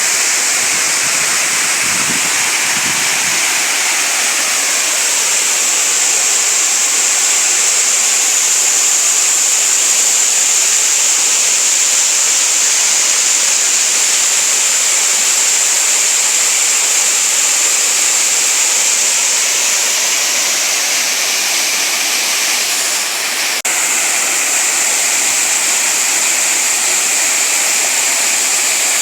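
Small waterfall cascading into a stream, a steady, even rushing of falling and running water.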